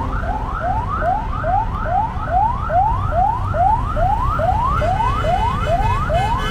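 Siren-like rising sweeps repeating about two and a half times a second, part of a background electronic music track whose held chords drop out for this stretch and come back at the end.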